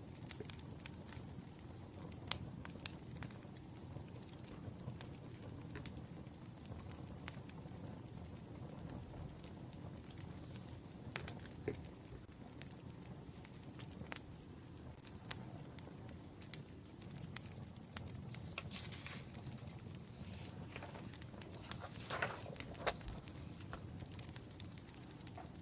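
Wood fire crackling: irregular sharp pops and snaps over a low steady rumble, with a brief flurry of louder crackles near the end.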